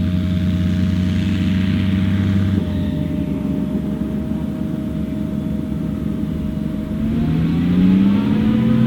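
Diesel engine of a heavy farm machine, a tractor or forage harvester, running steadily with a whine, then revving up about seven seconds in and settling at a higher pitch near the end.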